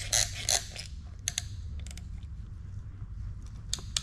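Metal hand-tool work on an engine block while pistons are fitted with a ring compressor. Two quick ratchet-like strokes come in the first half second, then a few scattered light metallic clicks.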